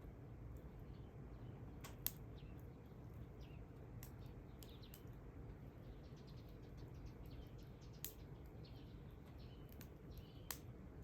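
Campfire crackling faintly, with three sharp pops about two, eight and ten and a half seconds in, over a low steady rumble.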